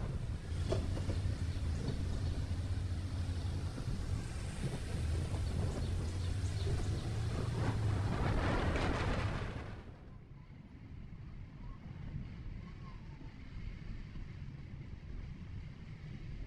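Steady road noise of a vehicle driving: a low hum with tyre and wind rush. About ten seconds in it drops abruptly to a quieter, duller rumble.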